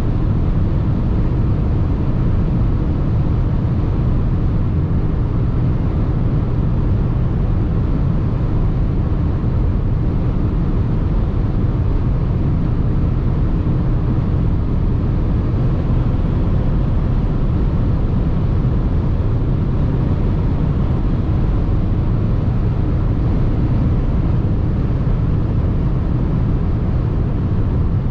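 Steady cabin noise of a Mercedes GLA 220d, a four-cylinder diesel SUV, cruising at speed: a deep, even mix of road, wind and engine noise that holds level without any revving.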